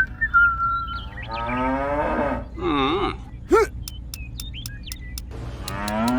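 Cows mooing: a long moo about a second in, a wavering call around the middle, and another moo beginning near the end. A thin whistle-like tone runs under the first second.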